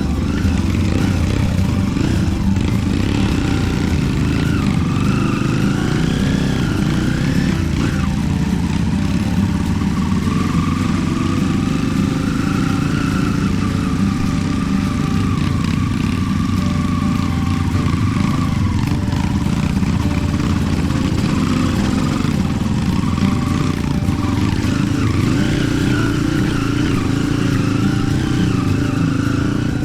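Trail motorcycle engine running steadily, its pitch drifting gently up and down with the throttle.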